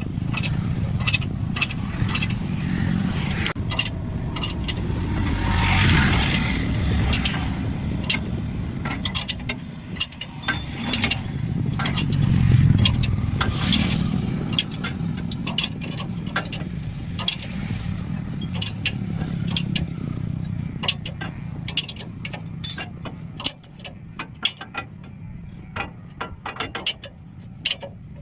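A vehicle engine drones steadily under many sharp metallic clicks and knocks. The drone swells louder about six seconds in and again near thirteen seconds, then drops away near the end.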